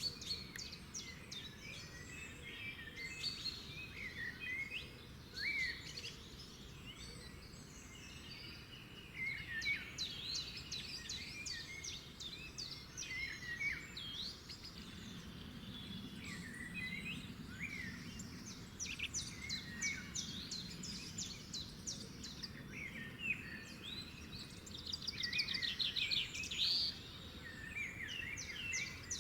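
Several songbirds singing and calling at once, a steady mix of chirps and short whistles, with a rapid trill near the end, over a soft low background rumble.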